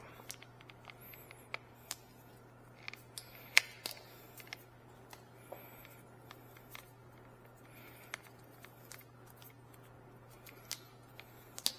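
Scattered light clicks and taps, as of tools and parts being handled, over a steady low hum; one sharper click about three and a half seconds in.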